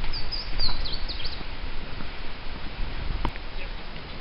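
A small bird chirping a quick run of high, sliding notes in the first second and a half, over a low steady rumble on the microphone. A sharp click about three seconds in.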